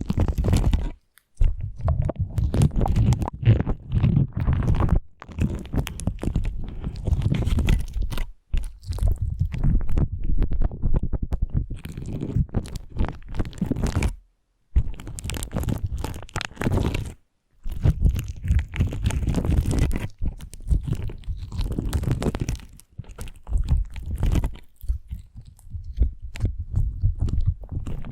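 Slime being squished and kneaded by hand: a dense run of wet crackling and squelching pops, stopping briefly several times.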